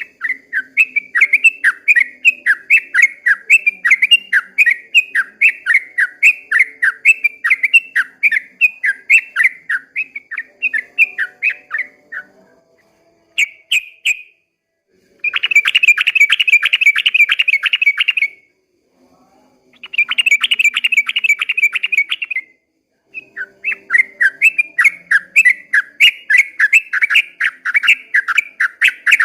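Yellow-vented bulbul (trucukan) singing its long rolling song: a long run of quick, repeated chirping notes, broken in the middle by two faster, unbroken trills of a few seconds each, before the chirping run picks up again.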